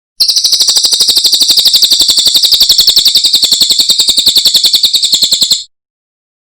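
Cililin songbird singing a fast, even trill of high, piercing chirps, about ten notes a second, held for over five seconds and cut off abruptly.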